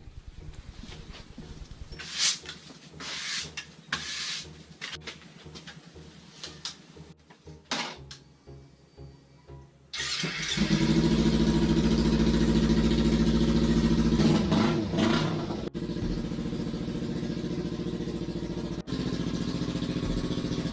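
Kawasaki Ninja 300 parallel-twin engine with its exhaust removed: a few clicks and knocks, then about halfway through the engine fires and runs loud and raw, with a brief blip of revs a few seconds later before settling to a steady idle.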